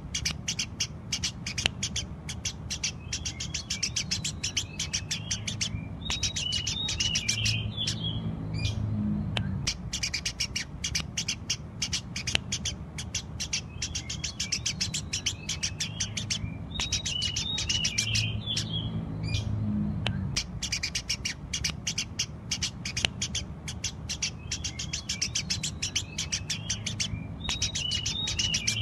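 Eurasian tree sparrows chattering in fast, continuous runs of sharp chirps, broken by a few short gaps, over a steady low hum.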